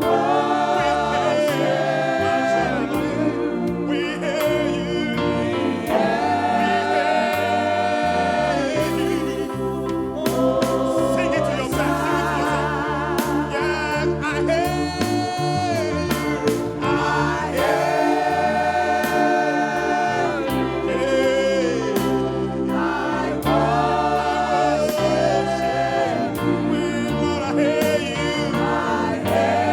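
Live gospel worship music: a choir of singers sings a praise song over a band accompaniment, with a steady drum beat.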